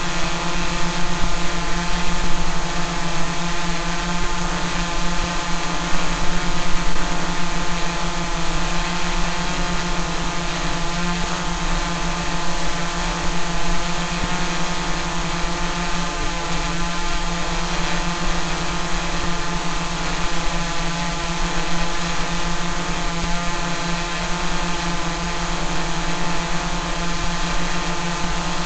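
Small drone's propellers buzzing steadily in a hover, a constant hum.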